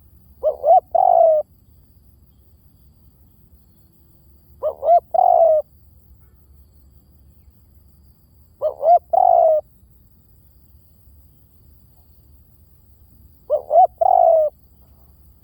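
Spotted dove cooing in four phrases roughly four seconds apart. Each phrase has two short notes and then a longer, falling coo. This is a decoy call recording used to lure doves.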